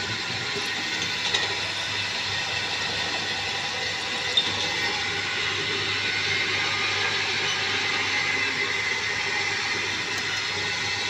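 Drilling machine running steadily, a hiss with a few faint high whining tones, and one sharp tick about four seconds in.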